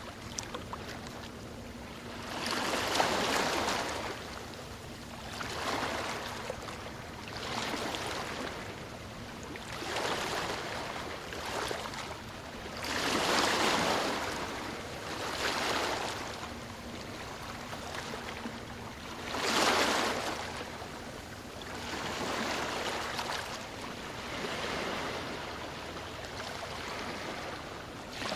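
Ocean waves breaking and washing up on a shore, with a fresh surge of surf every two to three seconds, each one swelling and then falling away.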